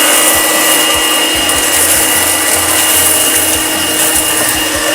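Shark SV1106 Navigator Freestyle cordless stick vacuum running on its bare-floor setting, a steady high-pitched motor whine with a hiss. Irregular light clicks come through as it picks up cornflakes.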